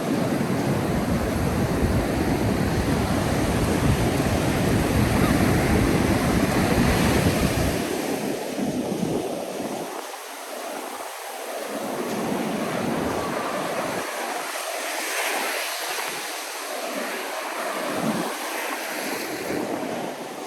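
Ocean surf washing on a sandy beach, with wind buffeting the microphone as a heavy low rumble for the first several seconds before easing off.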